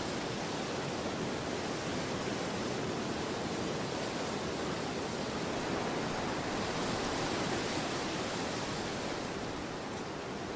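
Storm wind blowing in a steady rush, swelling in a gust about seven seconds in and easing slightly near the end.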